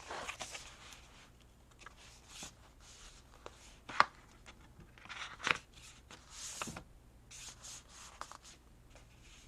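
Paper and card being handled and shifted on a table: intermittent soft rustles with a few light taps, the sharpest about four seconds in and another about five and a half seconds in.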